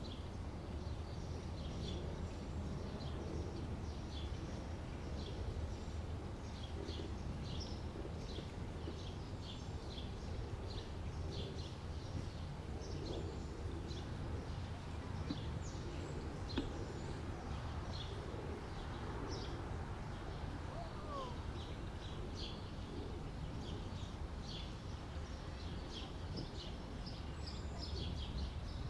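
Small birds chirping over and over, short high calls scattered throughout, over a steady low rumble of outdoor background noise.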